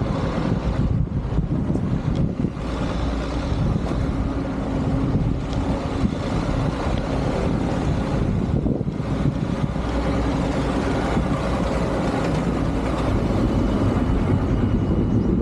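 A motor vehicle's engine running steadily, with wind rushing over the microphone.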